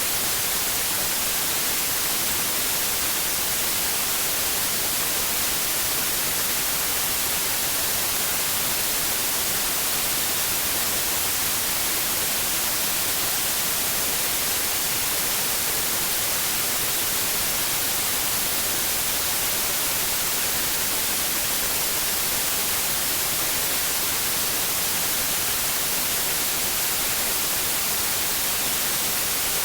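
Steady, unbroken white noise, a bright even hiss with no changes, made as a sleep aid for babies.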